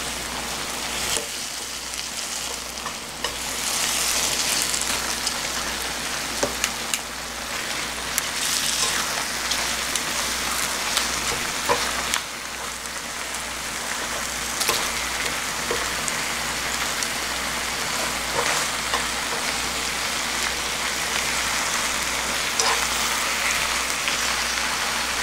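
Spicy marinated chicken sizzling steadily in a hot wok as it stir-fries. Scattered sharp clicks and knocks come from wooden chopsticks and pieces of potato and vegetable going into the pan.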